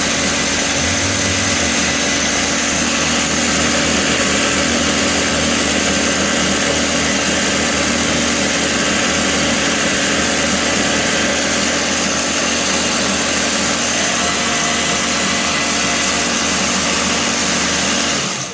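Homemade belt sander running steadily, its motor driving a sandpaper-covered car timing belt.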